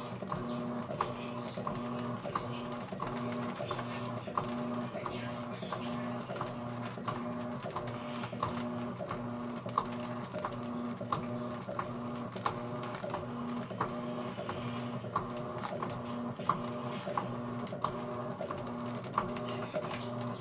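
Electrolux Essential Care 11 kg washing machine running a wash cycle on curtains: a steady mechanical hum with a pulsing tone and a regular run of light clicks.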